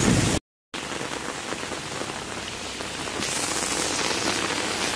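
Heavy rain pouring down as a steady, even hiss. It cuts out for a moment about half a second in, then grows a little louder and sharper about three seconds in.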